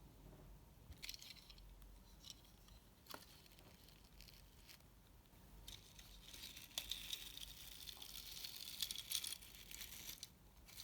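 Faint handling noises: a few scattered light clicks and taps, then past the middle about four seconds of crackly rustling that stops abruptly.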